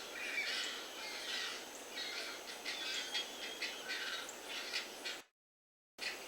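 Songbirds chirping and singing: many short, high calls in quick, irregular succession, stopping abruptly about five seconds in.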